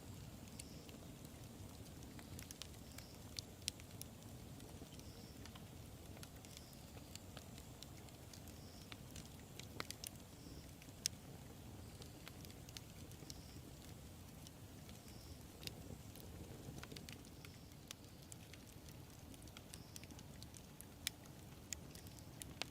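Wood fire burning, with a soft low rumble and irregular crackling, and a handful of sharper, louder pops now and then.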